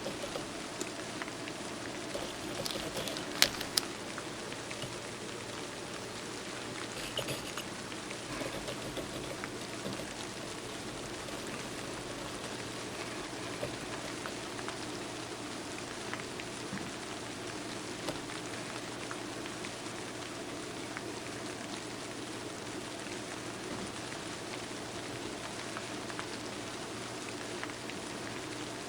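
Steady rain, an even patter through the whole stretch, with a few sharp clicks about three and a half seconds in and again about seven seconds in.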